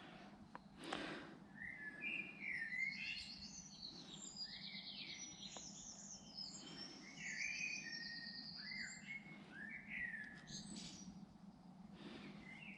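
A songbird singing varied phrases of rapid high trills and chirps, with quick rising and falling notes. There is a brief rustle about a second in.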